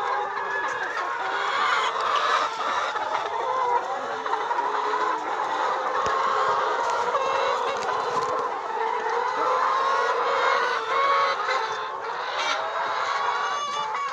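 A flock of laying hens clucking and calling, many birds at once in a steady, overlapping chorus.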